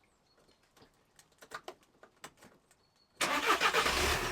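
A few faint clicks, then about three seconds in the VW Transporter T5's engine is started: a sudden loud start that settles into steady running.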